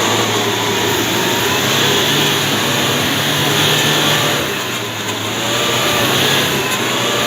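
Toyota Hilux pickup driving with its engine running under load, beneath a loud, steady rush of driving noise.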